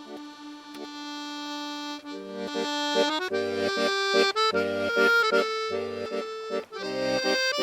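Instrumental music on an accordion-like reed instrument: a single held note, then from about two seconds in, fuller chords over short repeated bass notes.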